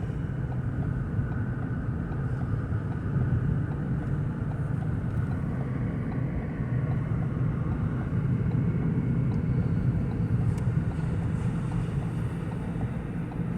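Steady low drone of the mk3 Ford Focus's 1.0-litre turbocharged three-cylinder engine running, heard inside the cabin. The engine is overheating and short of power, with a high engine temperature warning on the dash.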